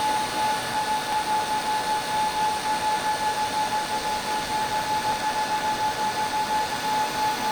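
TIG welding on stainless steel: a steady hiss with a constant high-pitched hum that does not change.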